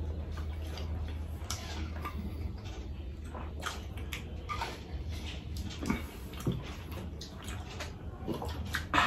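Close-miked eating sounds: wet chewing and mouth smacks from people eating a shawarma wrap and pizza, with scattered small clicks, over a steady low hum.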